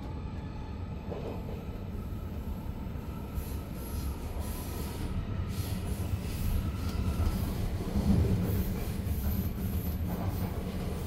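Running noise heard inside a Swiss DPZ double-deck coach hauled by an Re 450 locomotive: a steady low rumble of wheels on track that grows louder about halfway through.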